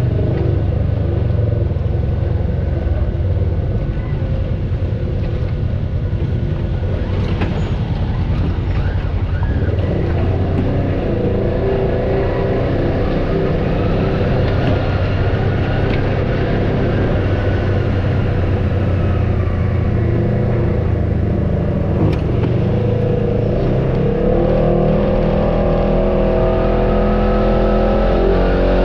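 Off-road vehicle engine running under load on a trail, the revs rising and falling, climbing higher in the last few seconds.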